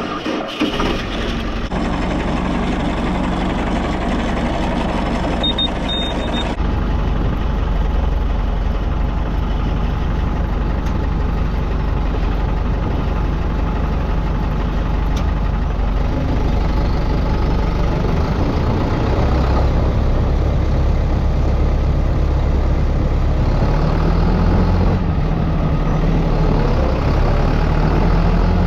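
Tractor engine catching and then running steadily. About six or seven seconds in it gets louder and deeper, just after a brief high beep. Near the end its pitch rises and falls a few times.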